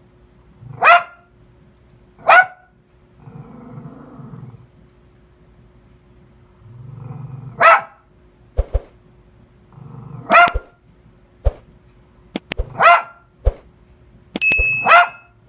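A dog barking in single loud barks every couple of seconds, six in all, with low growling between some of the barks and a few sharp clicks in the second half.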